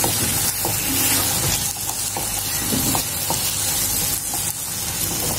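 Wet ground red chilli paste and chopped garlic sizzling in hot oil in a kadhai, stirred with a silicone spatula: a steady frying hiss with a few soft scrapes.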